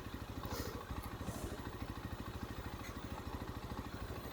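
Rieju motorcycle engine running steadily at low revs, a quick even low pulsing.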